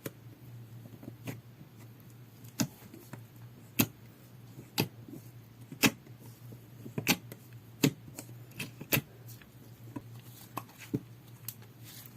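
Slime being squished and pressed by hand, making sharp clicks and pops about once a second over a low steady hum.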